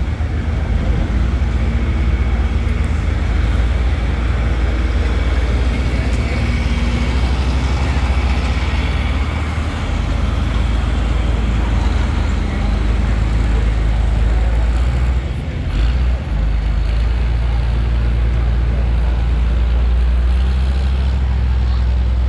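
A pulling truck's engine running hard as it drags the weight sled down the track, a steady heavy rumble with a brief drop about fifteen seconds in.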